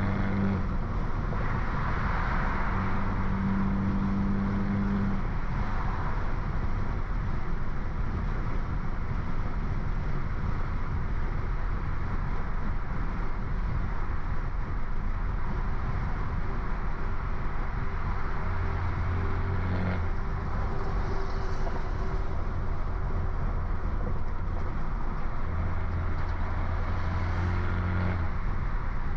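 Stage 2-tuned BMW F30 328i with a downpipe and loud aftermarket exhaust, its turbocharged four-cylinder running at a steady, light throttle while cruising: a constant low exhaust drone over road noise, with no big revs.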